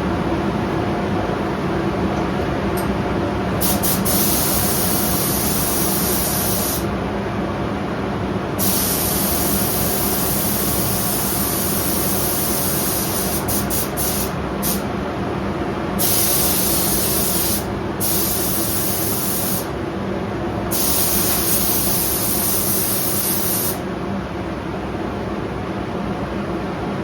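Spray gun hissing in repeated passes, each a second to several seconds long with short breaks, laying a coat of clear coat. A paint booth's exhaust fan drones steadily underneath.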